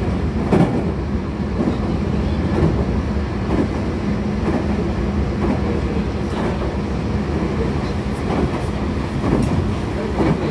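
Tokyu 2020 series electric train running at speed, with a steady rumble and the wheels clacking over rail joints about once a second.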